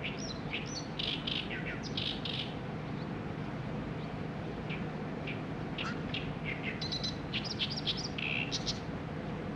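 Small songbirds chirping in quick runs of short high notes, in two spells: over the first couple of seconds and again from about halfway to near the end, over a steady low background hum.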